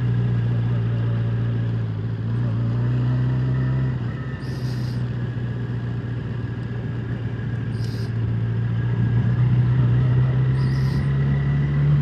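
Vehicle engine running at a steady pitch while being driven, easing off about four seconds in and slowly climbing again toward the end.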